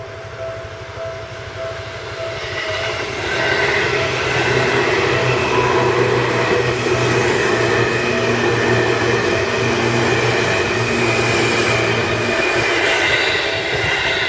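Seibu Haijima Line electric commuter train passing over a level crossing. Its rumble grows over the first few seconds and then holds steady and loud. The crossing's warning bell dings over and over throughout.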